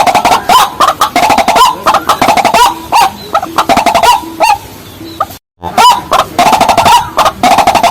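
Loud, rapid calls of rails, the white-breasted waterhen and watercock, given as fast runs of repeated clucking notes. The sound cuts out completely for a moment a little over five seconds in, then the calls resume.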